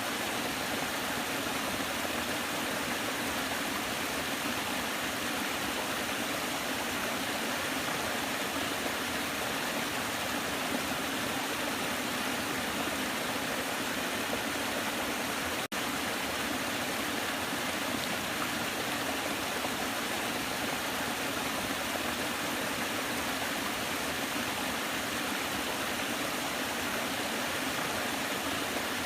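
Waterfall: a steady, unbroken rush of falling water, with a split-second dropout about halfway through.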